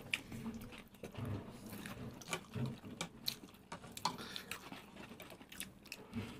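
Several people chewing and biting into burgers, close to the microphone: irregular short clicks and soft wet mouth sounds.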